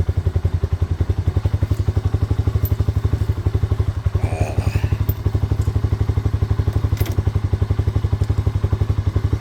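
Honda Big Red three-wheeler's single-cylinder four-stroke engine idling steadily in an even, rapid putter, with a light click about seven seconds in.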